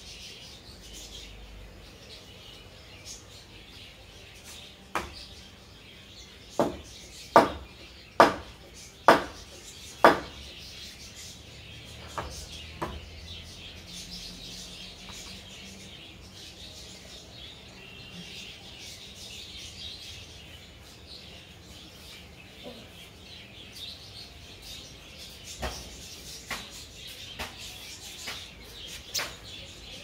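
Birds chirping faintly throughout, over which come sharp clicks or taps. Six loud ones come about a second apart starting about five seconds in, and a few fainter ones follow later.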